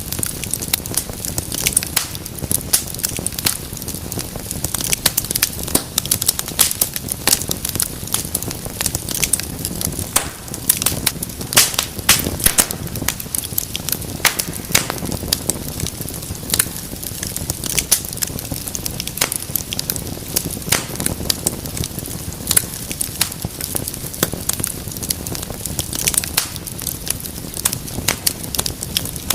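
Wood fire crackling steadily, with many sharp pops and snaps over a low rumble and hiss of the flames.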